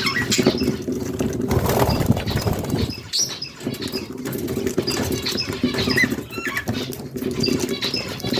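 Budgies chirping in short high calls, with wing flutters and small clicks and scratches, over a steady low hum.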